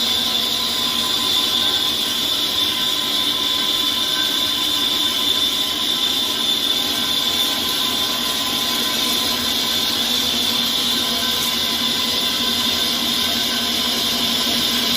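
CNC lathe running and machining, a steady mechanical noise with a constant high whine.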